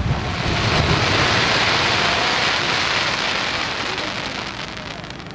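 Aerial firework: the low rumble of a shell's burst dies away in the first second, then the burning stars make a loud sizzling hiss that swells and fades over about five seconds, with a few sharp crackles near the end.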